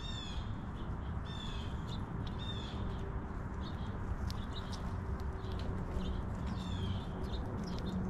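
Wild bird calls: a short descending call repeated four times, twice in the first three seconds and again near the end, over scattered light ticks and a faint steady hum.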